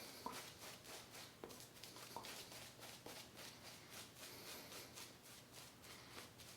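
Simpsons Trafalgar T3 synthetic shaving brush working lather over a face in quick, faint, rhythmic swishing strokes, about three a second.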